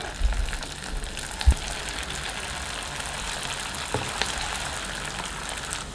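Semolina-and-potato snack rolls deep-frying in medium-hot oil in a kadai: a steady sizzle with fine crackles. A soft low knock comes about a second and a half in.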